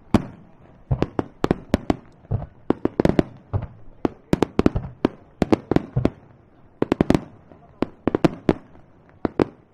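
Aerial fireworks going off in a rapid, irregular run of sharp bangs and cracks, several a second, each with a short echoing tail.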